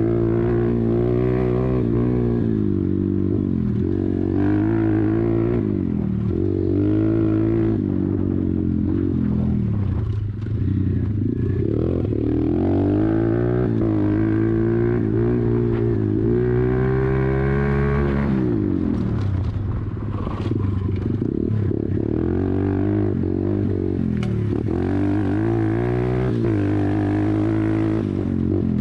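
YCF 125 pit bike's single-cylinder four-stroke engine being ridden hard, revving up and falling off again every few seconds, with one long climb in pitch through the middle that drops away sharply.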